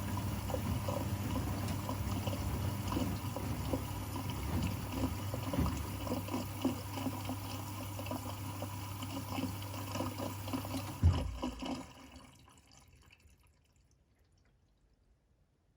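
Washing machine with water splashing and a steady pump hum, which stops about 11 seconds in with a single thump; the sound then dies away to near quiet.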